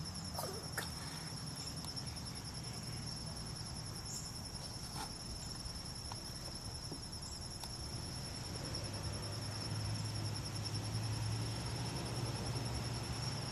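Crickets singing a steady, high, finely pulsed trill, with a low hum underneath that grows louder about nine seconds in.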